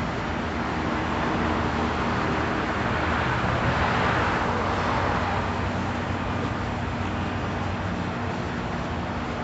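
Motor vehicle running on a road: a steady low engine hum with tyre and road noise, which swells to a louder rush about four seconds in and then fades.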